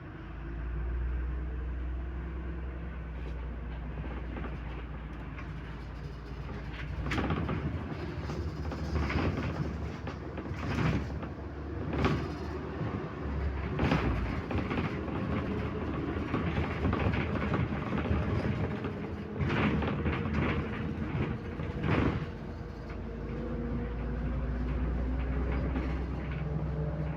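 Interior of a MAZ 105 city bus on the move: the engine and driveline run with a steady low hum, with a series of sharp clunks and rattles through the middle. Near the end there is a rising whine as the bus speeds up.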